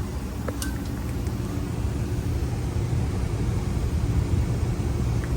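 Goodman split-system outdoor condensing unit running, a steady low hum from the compressor and condenser fan, with a few light clicks about half a second in and near the end.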